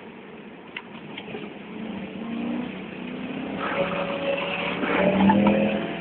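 BMW M3 E92's 4.0-litre V8 revving and growing louder, loudest about five seconds in, then easing off.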